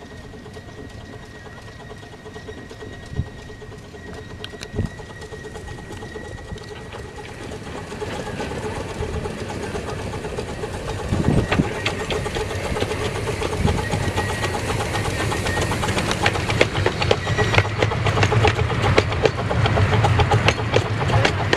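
Small 15-inch gauge live steam locomotive, a 2-6-0, approaching with its train of freight cars, growing steadily louder. In the second half the rapid rhythmic chuffing and wheel clatter on the rails become plain. A faint steady high tone is heard for the first several seconds.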